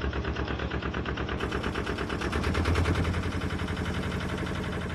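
A narrowboat's diesel engine running under way with a fast, even chugging; its low hum grows a little stronger about halfway through.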